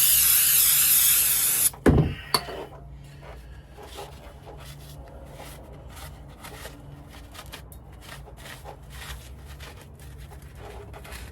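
A loud hissing blast of pressurized spray cleans off the differential housing to check the pinion seal for leaks. It cuts off suddenly just under two seconds in. Two sharp knocks follow right after, then faint clicks and rustling.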